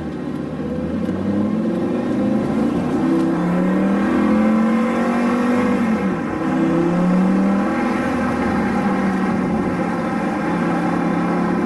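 Lamborghini Gallardo Superleggera's V10 engine heard from inside the cabin, accelerating with its pitch climbing, falling briefly about six seconds in, then climbing again and settling to a steady note.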